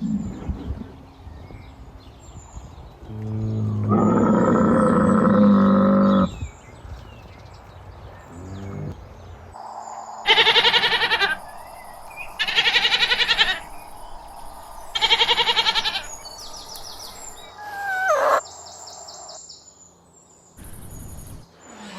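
A series of different animal calls: a long, low, loud call a few seconds in, then three loud calls of another kind evenly spaced about two and a half seconds apart, and a short falling call near the end.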